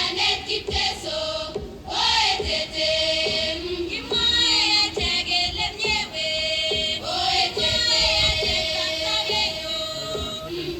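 Group singing in a choir-like chant, with held sung notes over a musical backing.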